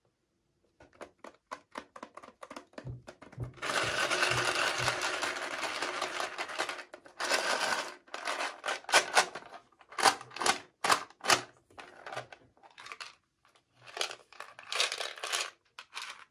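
Packaging of miniature toys being handled and opened: quick small clicks and taps, a few seconds of continuous crinkling a few seconds in, then more clicks and short crinkles.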